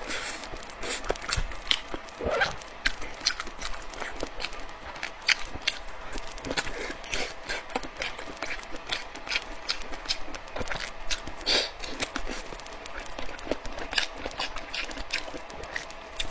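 Close-miked eating sounds of a person chewing braised pork belly: a dense, irregular run of wet mouth clicks and lip smacks, several a second.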